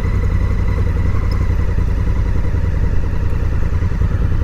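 Honda Africa Twin CRF1000L parallel-twin engine idling steadily, a low even rumble with a faint steady high whine alongside.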